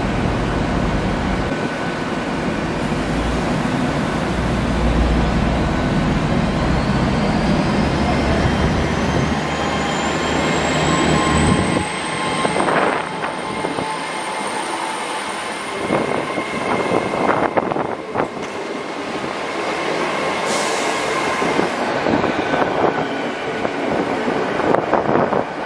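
LNER Azuma (Hitachi Class 800) train pulling away. A low engine rumble runs under a whine that climbs in pitch for a few seconds and then holds steady as it gathers speed. Once the carriages are rolling past, wheels click over the rail joints.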